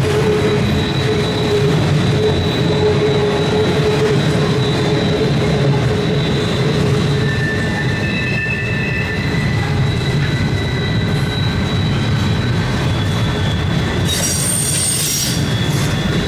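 Cars of a long CSX intermodal freight train rolling past: a steady rumble, with wheels squealing in thin steady high tones. A brighter, higher screech comes in about 14 seconds in and lasts a second or so.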